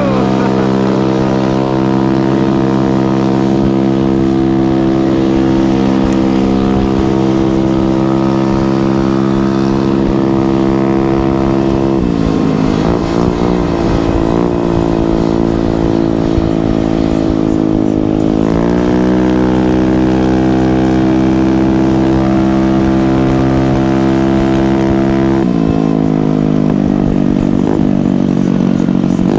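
Small gas scooter engines running hard at speed, with a steady engine note. The pitch dips and climbs back twice, about a third and two-thirds of the way through, as the throttle is eased and opened again, then drops lower near the end.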